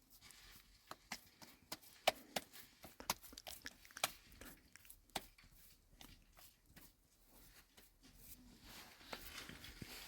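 Irregular sharp clicks and cracks, one to three a second, over a faint background hiss.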